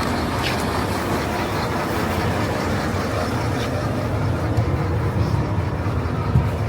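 Steady engine and road rumble of a motor vehicle on the move, with a couple of low bumps near the end.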